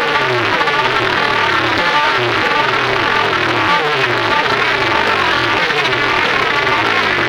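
Loud music played through a large DJ sound-system speaker rig, distorted and buzzing, with a falling pitch sweep repeating roughly every half second over a pulsing bass line.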